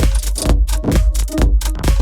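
Electronic dance music with a steady, heavy kick drum, a little over two beats a second, and crisp hi-hat strokes between the beats.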